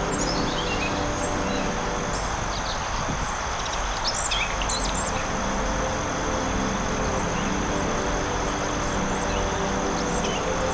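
Forest ambience: birds chirping, with a run of quick falling chirps at the start and a cluster of calls about four to five seconds in, over a steady hiss, a steady high insect-like tone and low sustained tones.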